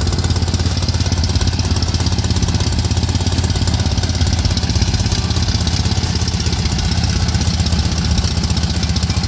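Air-cooled Volkswagen 1600cc flat-four engine idling steadily.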